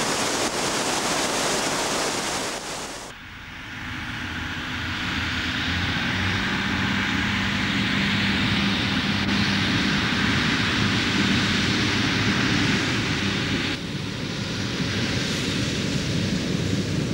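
A diesel train running, its engine a steady low drone under a rush of wheel and air noise. The sound changes abruptly about three seconds in, from an even rushing noise to the droning engine, and shifts again briefly near the end.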